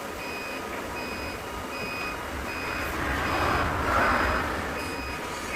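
Vehicle reversing alarm giving a steady series of short, high beeps, a little more than one a second, over a low engine rumble. A louder rush of noise swells and fades about three to four seconds in.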